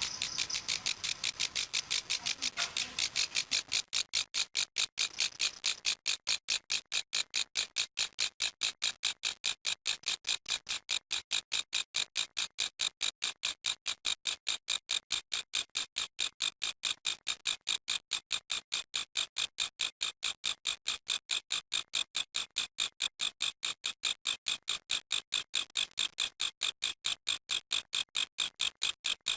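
Grasshopper stridulating: a steady, evenly paced series of short, high-pitched rasping pulses, about four a second, a little louder and denser for the first few seconds.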